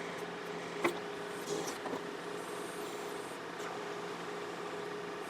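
John Deere 4052R tractor's diesel engine idling at its lowest speed with a steady low hum, and a single sharp click about a second in.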